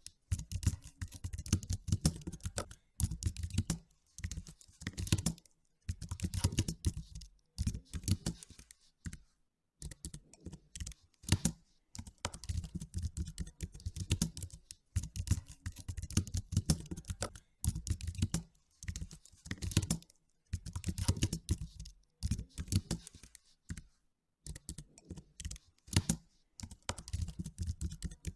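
Computer keyboard typing: runs of quick key clicks in bursts of a second or two, with brief pauses between.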